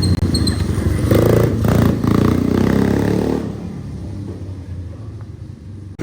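ATV engine running under throttle with some rattling, louder for the first three and a half seconds, then quieter.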